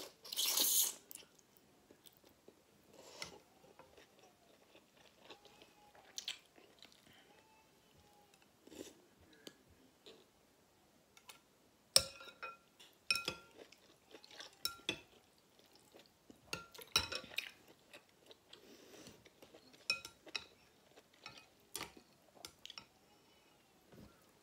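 Close-up eating sounds: wet chewing and mouth noises, with a loud slurp of noodle soup about a second in, and scattered sharp clicks and taps through the middle.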